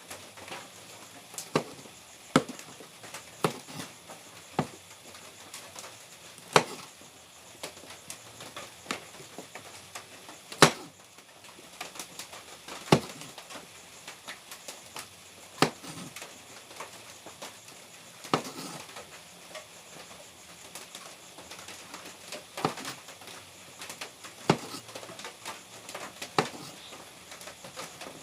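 Kitchen knife slicing chili peppers on a cutting board: sharp, separate knocks of the blade on the board, about one every one to two seconds, at an uneven pace.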